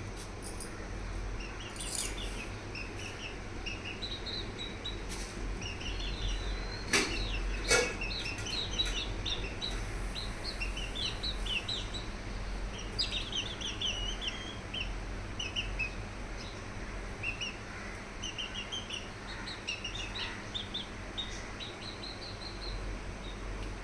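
Many short, high bird chirps and peeps, coming thick and fast, with a couple of sharp knocks about seven and eight seconds in, over a steady low hum.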